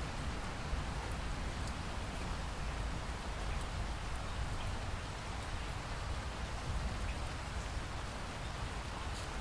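Steady rain falling, an even hiss with scattered faint drop ticks and a low rumble underneath.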